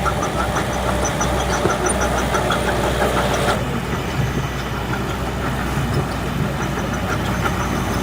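Diesel engine of heavy earthmoving machinery running steadily with a regular knocking clatter. A higher-pitched part of the noise cuts off suddenly about three and a half seconds in.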